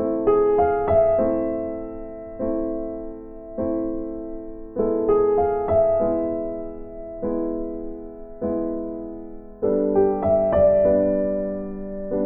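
Background music on piano: slow chords struck about once every second and a bit, each fading before the next, with a few quick runs of higher notes.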